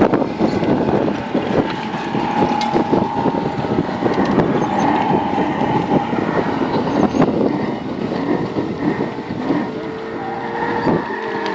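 Quad bike engine running as the bike is ridden, its pitch rising and falling, with frequent knocks and rattles.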